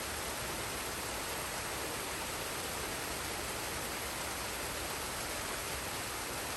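Forest waterfall and stream: water pouring and rushing with a steady, unbroken hiss.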